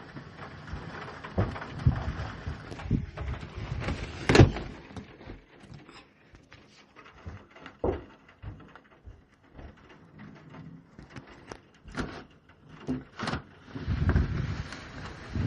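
Irregular knocks and clatters, the loudest about four seconds in, with a longer low thump near the end.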